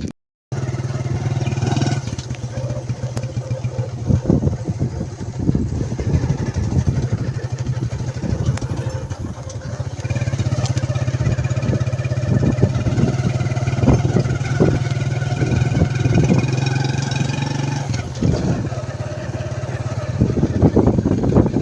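A vehicle engine running steadily, with many short knocks and rattles over it.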